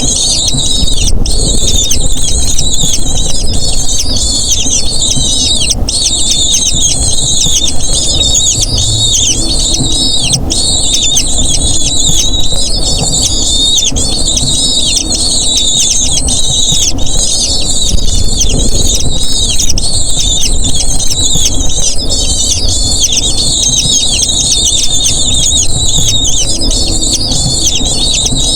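Eagle chicks begging at the nest: a continuous, dense chorus of thin, high-pitched squealing calls, many short falling notes a second, over a low rumble.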